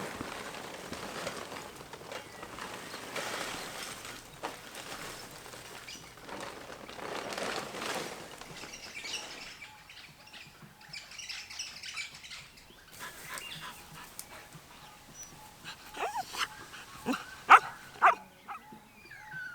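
A dog barking a few short, sharp times near the end, after a stretch of rustling noise.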